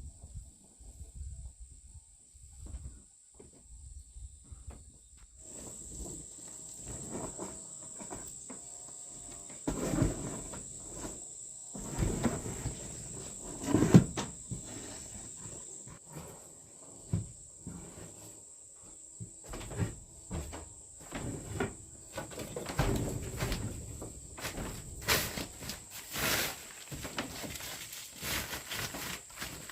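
Irregular knocks, clatter and scraping from hands-on work, loudest in the middle and toward the end, over a steady high-pitched insect drone that grows louder about five seconds in.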